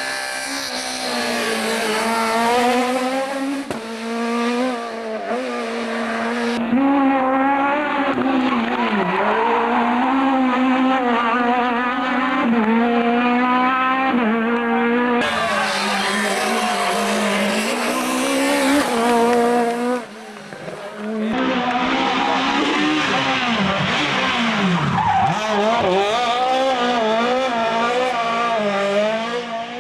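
Rally kit cars driven hard: high-revving engines climbing and dropping in pitch through quick gear changes, with tyre noise on the loose. The sound changes abruptly about a quarter of the way in, around halfway and again about two-thirds through, as one car gives way to another.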